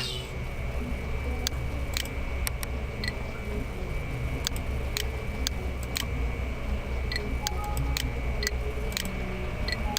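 Computer keyboard keys being typed: sharp separate clicks at an uneven pace of about two a second, over a steady low hum.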